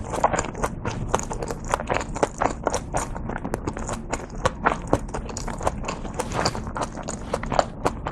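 Close-miked chewing of steamed dumplings: a dense run of wet mouth clicks and smacks, picked up by a lapel microphone.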